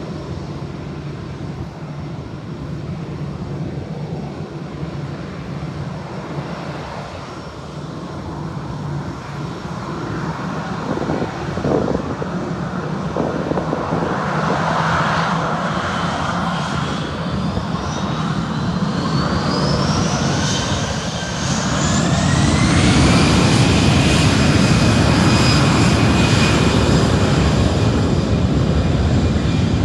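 Airbus airliner's jet engines spooling up for takeoff. A steady rumble gives way, about halfway through, to whines climbing in pitch. The whines level off as the engines reach takeoff thrust, and the sound is loudest in the last third.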